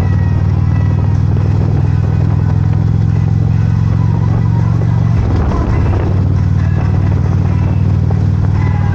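Motorcycle engine running at a steady speed while riding, with a low, even drone that wavers briefly about five seconds in.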